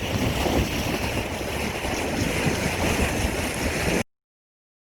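Wind buffeting the microphone over rushing water aboard a moving sportfishing boat, a steady roar that cuts off abruptly about four seconds in.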